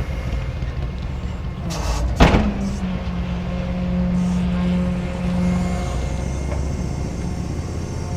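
A tow truck's engine idles steadily, with one sharp bang about two seconds in.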